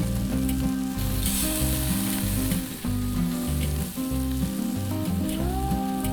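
Background music with a stepping bass line and held notes, over kebabs sizzling and crackling on a charcoal grill. The sizzle's hiss swells for a second or so near the start.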